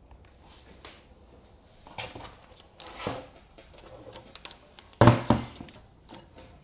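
Masking tape being pulled off the roll and handled: a few short, noisy pulls with clicks, the loudest about five seconds in with a knock.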